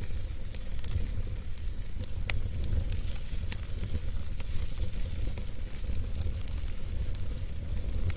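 Wood fire burning in a fireplace: a steady low rumble and hiss with irregular sharp crackles and pops.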